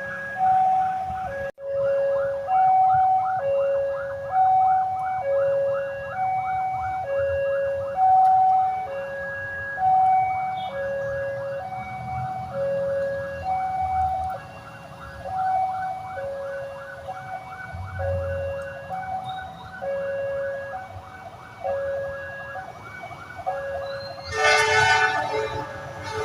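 Railway level-crossing warning alarm sounding a two-tone high-low chime over and over, about one tone a second, with a fast ticking over it. Near the end a locomotive horn sounds loudly.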